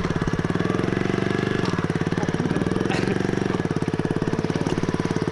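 Small dirt bike engine idling with a rapid, even putter, the revs lifting slightly twice.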